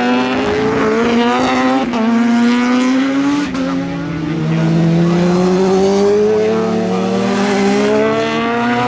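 Superbike racing motorcycle engine at full throttle, its pitch climbing steadily and dropping sharply at each gear change, several times.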